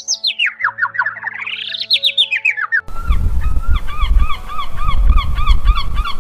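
Rapid chirps sweeping up and down in pitch over a few steady low tones, then about three seconds in a group of flamingos honking, two or three short calls a second, over a low rumble.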